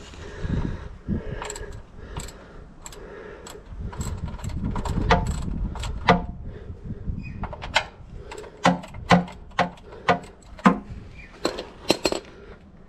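Metal tools clinking and knocking: a string of sharp metallic strikes, most of them bunched in the second half, over low handling rumble.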